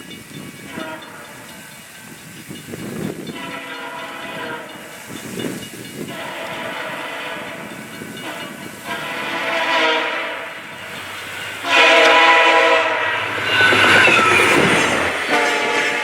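VIA Rail passenger locomotive's air horn sounding a series of blasts as the train approaches, growing louder, with the loudest blasts near the end over the rising rumble of the train.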